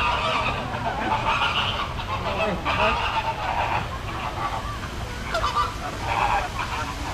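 A flock of flamingos honking, many goose-like calls overlapping without a break.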